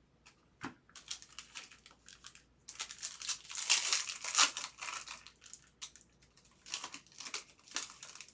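Foil trading-card pack wrapper crinkling and being torn open in irregular crackly bursts, loudest in the middle and again near the end.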